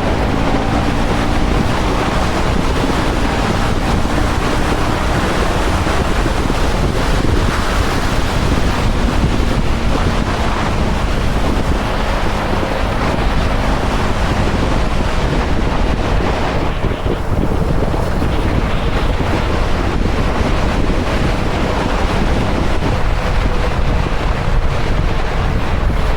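Wind rushing over the microphone of a motorcycle in motion, with the KTM 250 Duke's single-cylinder engine faintly audible underneath, its revs drifting slowly up and down.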